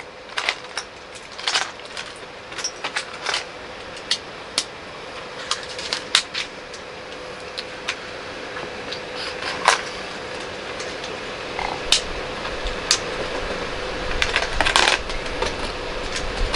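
Plastic LEGO pieces clicking and clattering irregularly as bricks are picked up and pressed together, over a faint steady hum.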